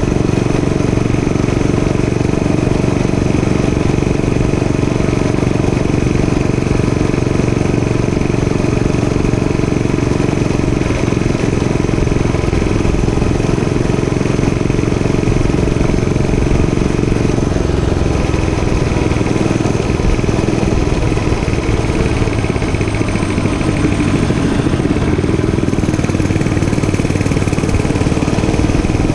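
Dirt bike engine running steadily while riding, its pitch shifting somewhat about ten seconds in and again past the middle.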